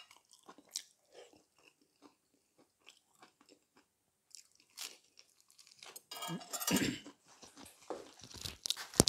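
Close-miked eating sounds: small wet chewing clicks, then a loud crunching bite into a lettuce wrap about six seconds in. A single sharp knock comes near the end.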